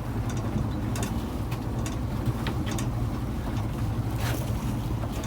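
Fishing boat's engine running steadily with a low hum, with a few short, sharp knocks or splashes on top.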